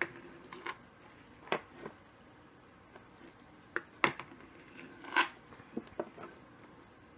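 A knife clicking and scraping against a plate and dish as a slice of chilled layered dessert is cut and lifted out: scattered short clicks and knocks a second or so apart, the loudest about five seconds in.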